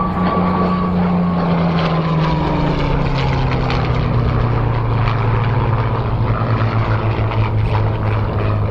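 WWII propeller fighter's piston engine droning as it flies past, its pitch dropping over a few seconds in the middle and then holding steady.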